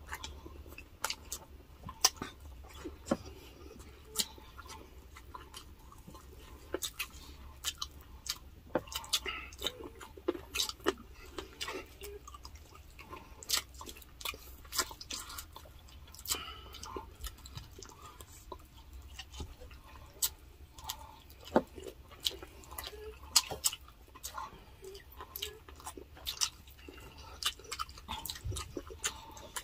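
Close-miked chewing of grilled chicken eaten by hand: a steady stream of irregular mouth clicks and smacks, with occasional louder ones.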